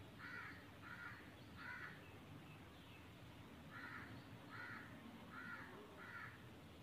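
A bird calling faintly in two series: three short calls about two-thirds of a second apart, then after a pause of about two seconds, four more.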